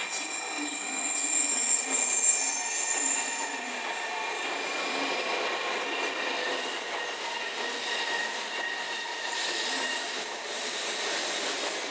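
N700 series Shinkansen train running slowly along the platform as it pulls in. Its rolling noise is steady, overlaid with high thin whining tones that are strongest in the first few seconds and fade out by about halfway.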